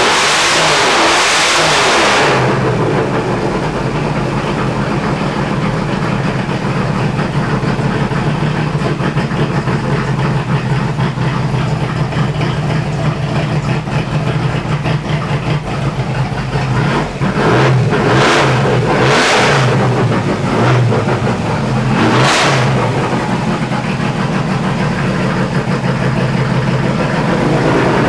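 Chevrolet S-10's 4.3 L V6 with a flat-tappet hydraulic cam, revved high at first and dropping back to a steady idle. It is then blipped four times in quick succession with the throttle, about two-thirds of the way in, before settling back to idle.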